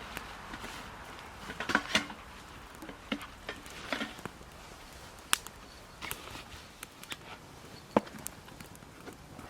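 Scattered light clicks and knocks, with two brief bursts of rustling and clattering at about two and four seconds in.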